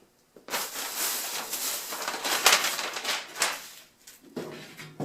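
Packaging being torn and pulled off a new 1-inch pleated furnace filter: a crinkling, crackling rustle lasting about three seconds, then a softer handling sound near the end.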